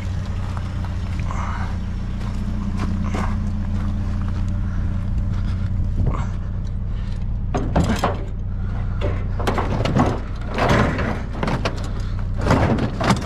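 Vehicle engine idling with a steady low hum, with a run of knocks and rattles starting about six seconds in.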